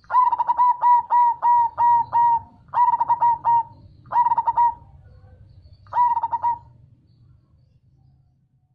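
Perkutut (zebra dove) cooing in four phrases of rapid, evenly repeated coos. The first run of about seven notes is the longest, followed by shorter runs, the last about six seconds in.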